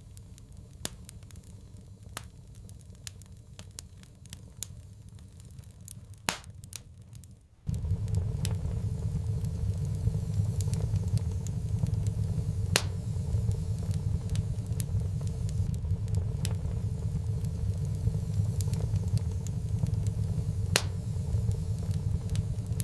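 Fireplace fire crackling, with scattered sharp pops. A low steady roar underneath cuts in abruptly about eight seconds in and continues.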